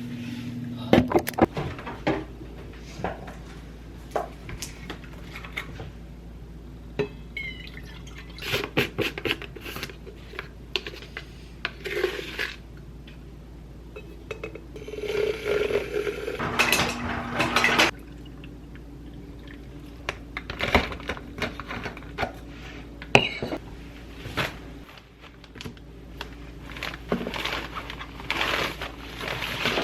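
Household clatter of dishes and utensils, with scattered clinks and knocks. A few seconds of rushing noise come a little past the middle.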